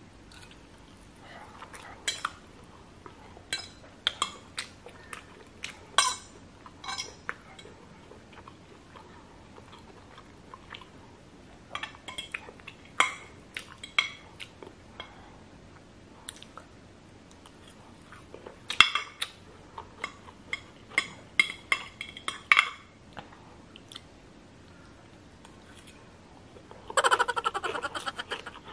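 Close-up eating sounds: a metal fork clicking and scraping on a plate in scattered clusters, with chewing of stir-fried rice noodles (pancit bihon). A short buzzing burst comes near the end.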